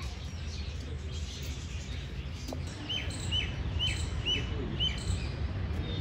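Birds chirping outdoors. In the second half one bird gives a run of five short, sharp high calls, about two a second.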